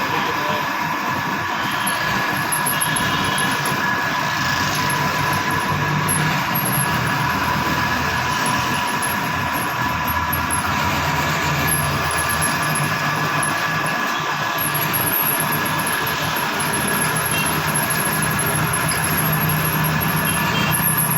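A power tool's electric motor running steadily, a continuous mechanical whir with a faint high whine over it.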